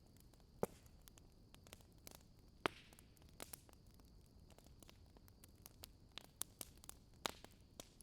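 Quiet wood fire crackling, with scattered sharp pops at irregular intervals over a faint hiss.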